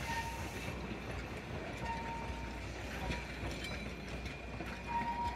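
Narrow-gauge diesel train running at a distance: a steady low rumble with a few faint, brief squeals.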